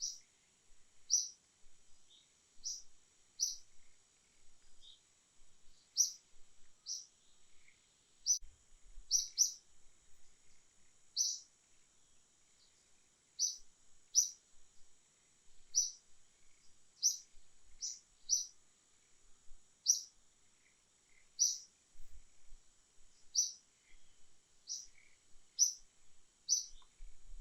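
A bird chirping over and over: short, high-pitched chirps about once a second at an uneven pace, over a faint steady high hum.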